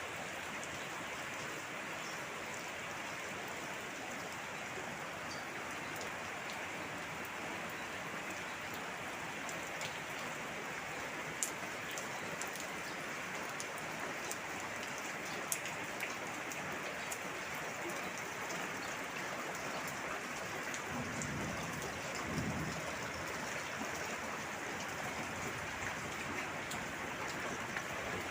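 Steady rain falling and splashing on surfaces, with a few sharp drip clicks and a brief low rumble about three-quarters of the way through.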